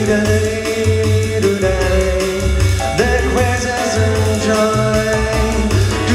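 Live band playing an instrumental break, a bass line moving note by note under a sustained melodic solo.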